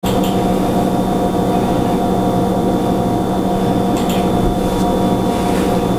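Loud, steady machine-like drone with a constant hum and a few faint clicks.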